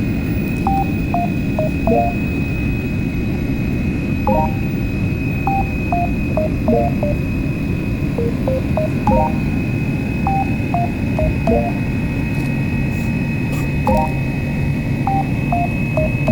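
Steady loud rumble of an airliner cabin in flight, with a constant high whine over it. A simple tune of short notes, the same phrase repeating about every five seconds, plays on top.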